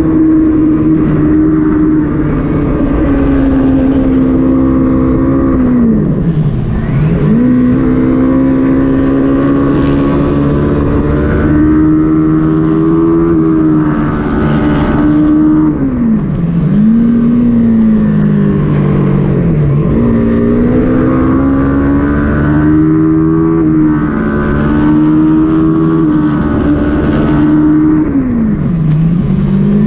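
Kawasaki Ninja 400 parallel-twin race engine at high revs, heard onboard. Four times the pitch dives sharply as the rider closes the throttle, brakes and downshifts for corners, then climbs again as he accelerates out and shifts up.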